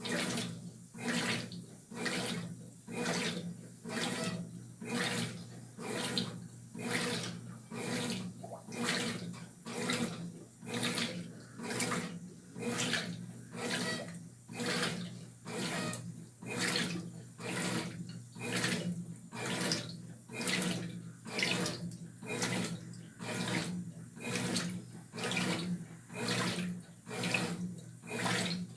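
Brastemp 12 kg top-loading washing machine agitating a load in water, with rhythmic sloshing swishes about once a second over a steady motor hum.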